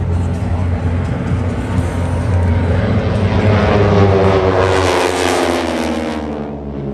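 Propeller airplane flying past, its engine note building and then dropping in pitch as it goes by, fading near the end.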